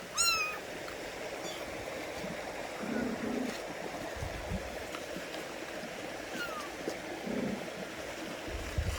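Kitten mewing: one loud, short, falling mew at the start, then a few fainter mews later on. Under them runs a steady rushing background noise.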